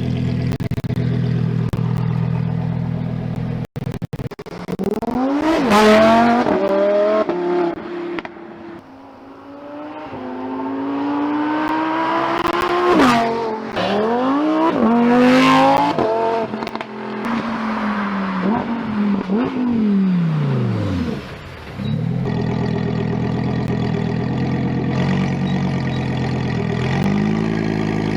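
Lamborghini Huracán Tecnica's naturally aspirated V10 running steadily, then revving hard twice, its pitch climbing and dropping sharply several times. It then winds down in one long falling sweep and settles back to a steady low running, with a short blip near the end.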